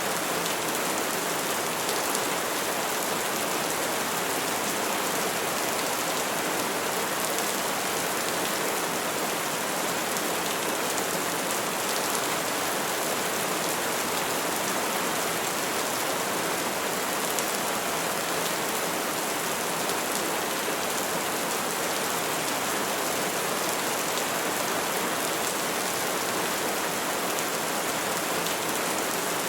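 Steady rainfall, an even hiss of rain on a surface with no change in strength.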